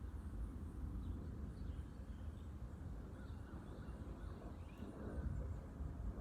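Faint, brief bird calls scattered over a steady low rumble of outdoor ambience.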